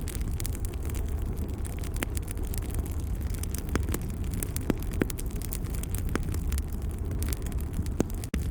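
Wood fire crackling in a fireplace: scattered sharp pops and snaps over a steady low rumble of the flames. The sound drops out for an instant near the end.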